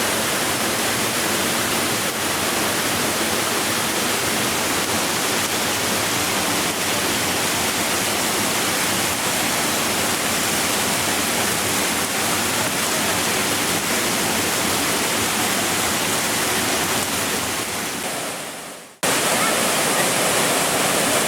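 Waterfall: a steady, dense rush of falling water. It fades out about eighteen seconds in and cuts straight to another stretch of the same rushing.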